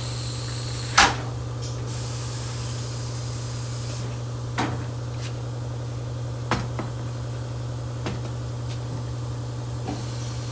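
A steady low hum with a sharp knock about a second in and four fainter knocks spaced a second or two apart.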